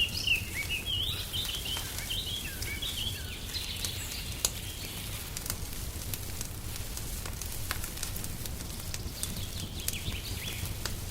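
Wood fire crackling in a fireplace, with scattered sharp pops over a low steady rumble. Songbirds chirp and twitter through the first few seconds and again near the end.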